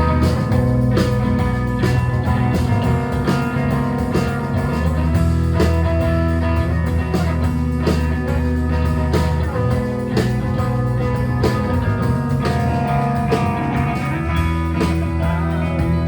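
Live rock band playing a song, led by guitar, with a steady rhythm of beats.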